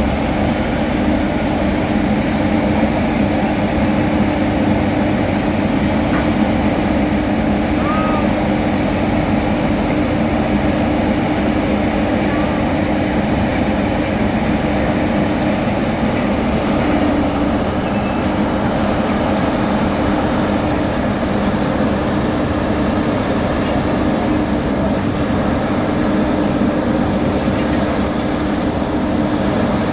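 Heavy diesel road-construction machinery running steadily at a constant engine speed, with no change in load.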